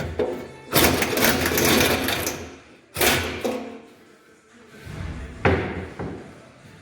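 Impact wrench running in two bursts, a longer one and then a short one, undoing the clamp bolts of a rear anti-roll bar bushing; a sharp metallic knock comes about five and a half seconds in.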